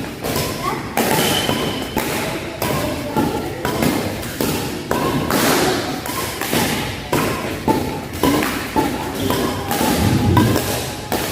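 Badminton rackets striking a shuttlecock in a fast drive rally, crisp hits about twice a second, ringing slightly in a large hall.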